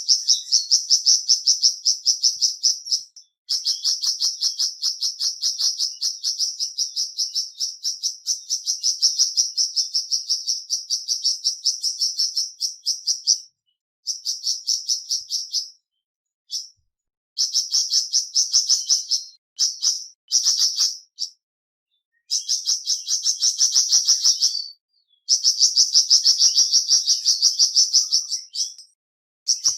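Flamboyan songbird calling in a fast, high-pitched chattering trill of rapidly repeated notes. It comes in long phrases broken by brief pauses, the kind of call played as a 'masteran' to set other caged birds singing.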